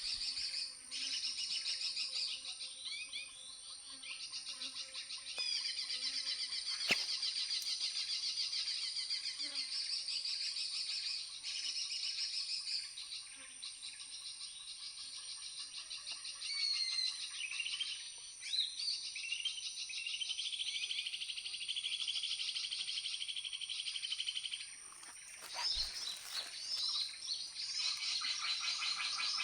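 Tropical forest insect chorus of cicadas and crickets: a steady high-pitched whine under dense pulsing trills that swell and fade, with short bird chirps about halfway through. A sharp click comes near the start and a low bump near the end.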